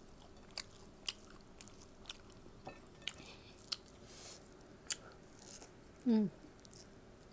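Close-up chewing and mouth smacking of someone eating rice and fish by hand, with short sharp wet clicks about every half second. About six seconds in there is a brief louder vocal sound that falls in pitch.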